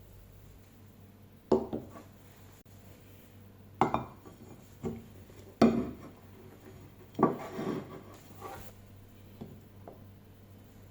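A utensil knocking and scraping against cookware as fried rice is dished up: about five sharp clinks and knocks spread over several seconds, then a few lighter taps near the end.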